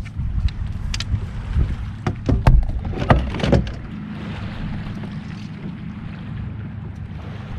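Wind buffeting the microphone on a fishing kayak, with a rumble at the low end. A run of sharp clicks and knocks comes in the first few seconds, then it settles to steady wind and water noise.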